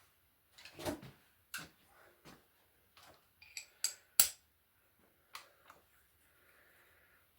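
Socket wrench and extension clinking and knocking against metal as bearing cap bolts are worked on under an engine with its sump off: a run of irregular sharp metallic taps, the loudest about four seconds in.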